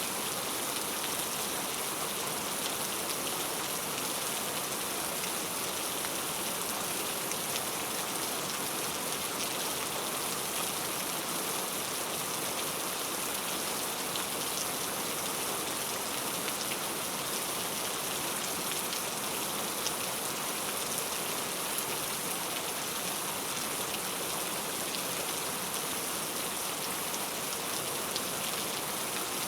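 Heavy rain falling steadily on a surface, an even hiss with fine scattered drop ticks.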